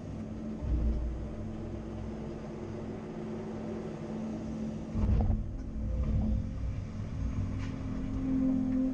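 Caterpillar 330 Next Generation excavator's diesel engine running steadily while the machine works. Its note deepens and swells about a second in, and again about five seconds in, where there is also a short clunk.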